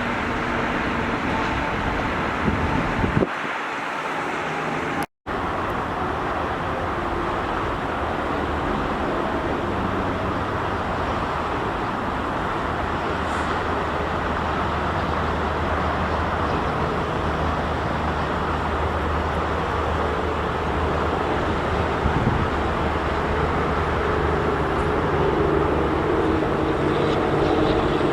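Steady engine noise with a low hum, cut off completely for a moment about five seconds in and growing slightly louder near the end.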